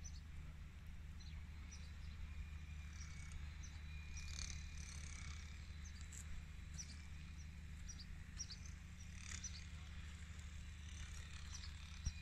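Faint bird chirps: short, high calls scattered throughout, over a low steady rumble.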